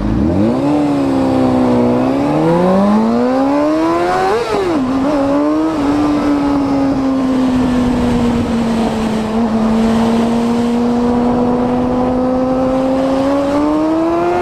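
Motorcycle engine accelerating hard, its pitch climbing and dropping at gear changes in the first few seconds, then holding a steady cruising note that rises again near the end.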